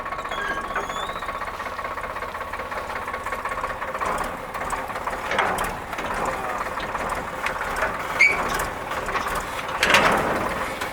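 Tractor-driven wheat thresher running steadily, with the engine and machine noise together and a steady whine through the first few seconds.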